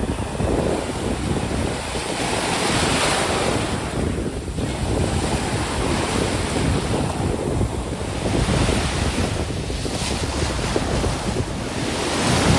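Ocean surf breaking and washing up the beach, surging every few seconds, with wind rumbling on the microphone.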